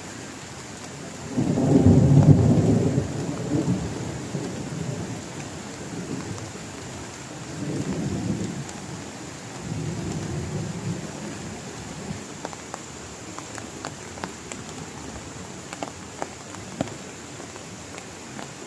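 Thunder rumbling over steady heavy rain. A loud, deep roll of thunder builds about a second in and fades away over several seconds. Softer rolls follow around eight and ten seconds in, and later scattered drops tick sharply.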